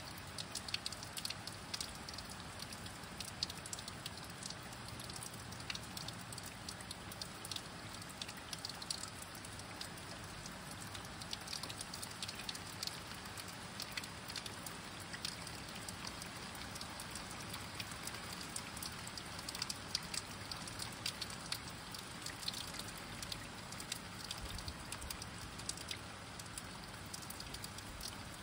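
Steady rain falling at night: an even hiss with many close raindrops ticking sharply.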